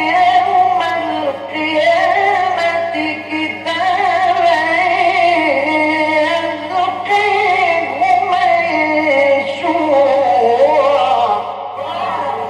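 Male Quran reciter's voice in melodic mujawwad recitation, drawing out long ornamented phrases with wavering pitch. A steady low hum runs underneath.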